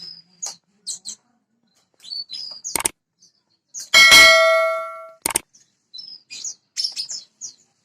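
Small birds chirping in short, high calls throughout, with a single loud metallic clang about halfway through that rings on and fades over about a second, and a couple of sharp clicks around it.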